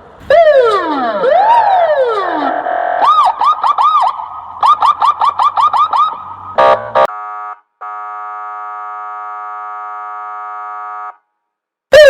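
Electronic police siren switched through its tones: two falling swoops, then fast up-and-down whoops, then rapid pulsed chirps. After a short buzz comes a steady buzzing horn tone held for about three seconds that cuts off suddenly.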